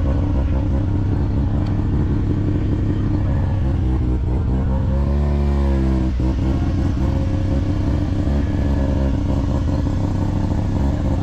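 A car engine running steadily, with a brief rev about five seconds in that rises and falls again.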